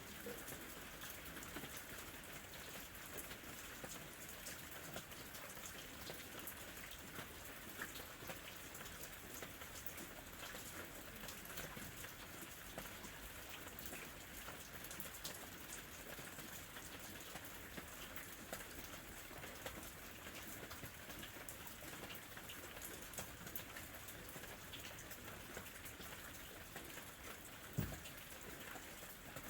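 Gentle rain falling steadily, with many separate small drops ticking. One louder knock lands near the end.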